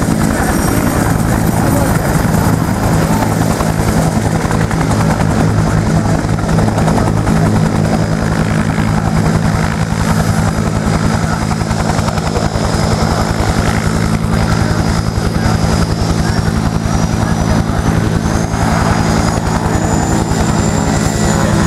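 Vietnam-era U.S. Army turbine helicopter (UH-1 Huey / AH-1 Cobra type) running steadily close by, its rotor beating fast and even under a high turbine whine that rises slightly near the end.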